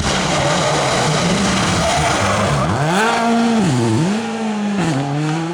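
Rally car engine at high revs, with tyre noise over the first couple of seconds; from about two and a half seconds in, its pitch drops and climbs again several times as the driver lifts off and changes gear, then it settles at a steady high note.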